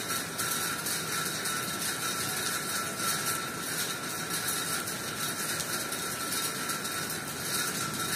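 Steady monsoon rain falling onto a flat, water-covered concrete ledge and dense leafy trees, an even hiss of countless drops.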